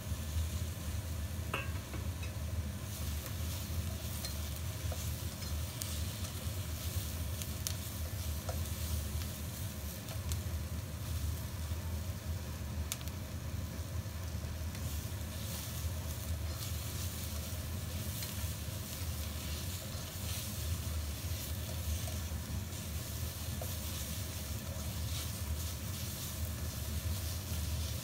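Sliced onions, mushrooms and bell pepper strips sizzling in a wok as they stir-fry, stirred with a spatula, over a steady low hum.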